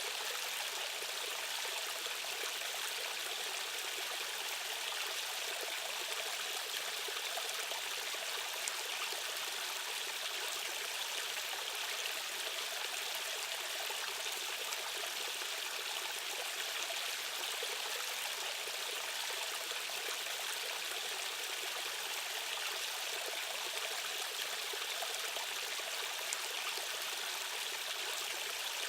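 Fast-flowing stream water rushing steadily, a bright even hiss with almost no low rumble.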